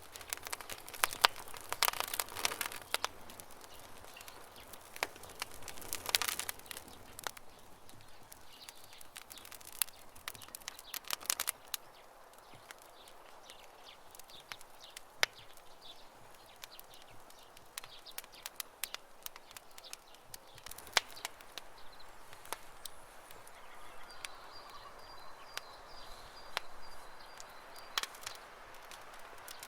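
Wood campfire crackling and popping at irregular intervals, with denser runs of crackles about two, six and eleven seconds in. A bird calls faintly in the background near the end.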